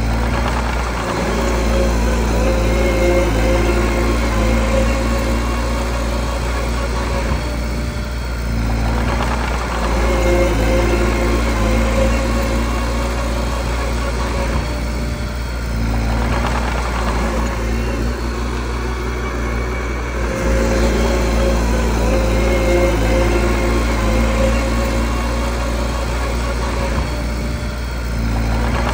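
Mini bulldozer's diesel engine running steadily under work. Its higher tones fade and return every several seconds as it pushes and backs up.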